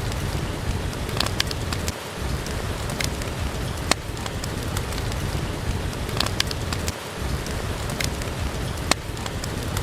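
Steady rain falling, with scattered sharp pops and crackles from a wood fire in a fireplace over it. The low rumble drops out briefly twice.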